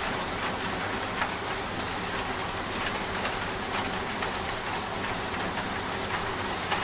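Steady rain with scattered drops ticking on a surface. Under it runs the low, even hum of a washing machine.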